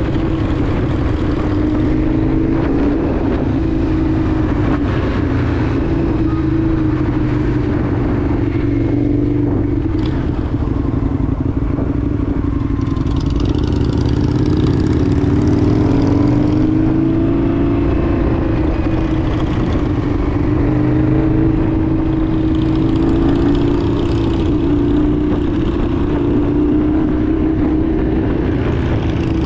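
Indian FTR 1200's V-twin engine running steadily under way, its pitch drifting up and down with a rise about halfway through, over steady wind and road noise.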